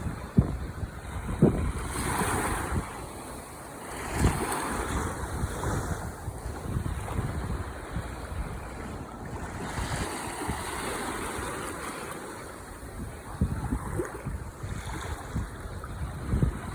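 Ocean waves washing onto the shore, swelling and receding twice, with gusts of wind buffeting the microphone in short low rumbles.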